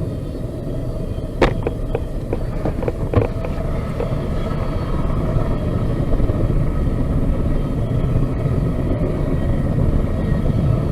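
Freight train cars rolling by: a steady low rumble that grows slightly louder, with a few sharp clicks or clanks early on.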